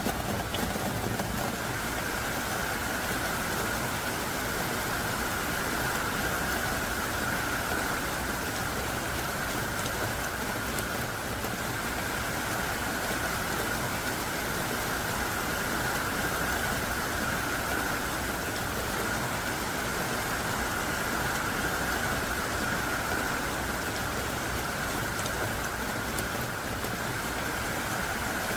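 Heavy rain falling and splashing steadily on surfaces, a continuous even hiss with no breaks.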